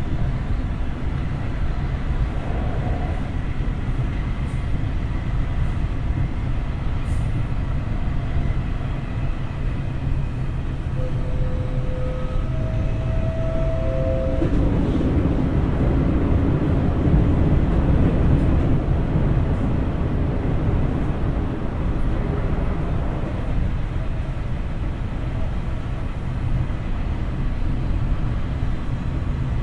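Running sound of a Tokyo Metro 03 series electric train heard from inside the car: a steady rumble of wheels on rail. A few short steady tones come in near the middle, and the rumble grows louder for a few seconds after them.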